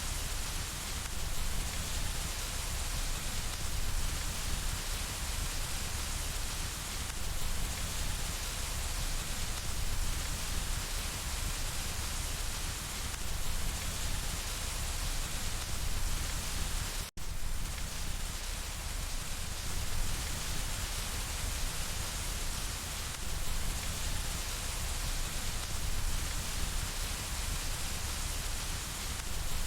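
Steady rain pattering on window glass, an even, continuous hiss, cutting out for an instant about seventeen seconds in.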